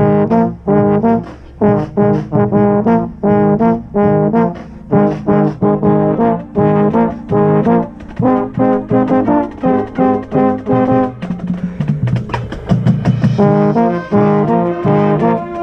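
Marching band brass playing a passage of short, separated notes, with a marching baritone close by; about eleven seconds in, the notes give way to a held chord for a couple of seconds before the short notes start again.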